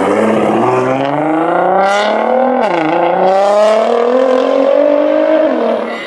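Car engine accelerating hard, its pitch climbing steadily, dropping sharply at a gear change about three seconds in, then climbing again before it fades near the end.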